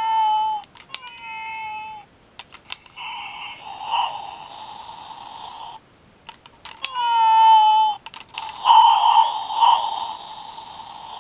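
Robo-Chi robotic cat toy playing its electronic sound effects through a small speaker: short synthesized meows, each sliding down in pitch, three in all, alternating with two longer buzzy electronic stretches of about three seconds each. Sharp plastic clicks come between the sounds.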